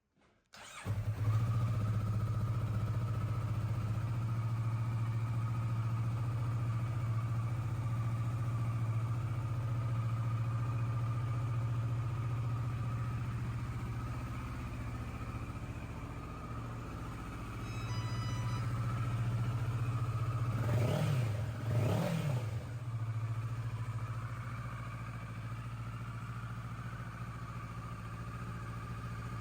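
Kawasaki Versys 650's parallel-twin engine starting up about a second in and idling steadily, then revved in two quick blips about two-thirds of the way through before settling back to idle.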